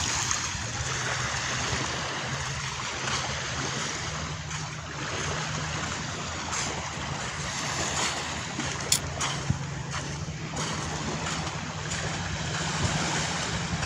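Seaside ambience: a steady rush of wind and surf, with a low steady hum underneath and one sharp click partway through.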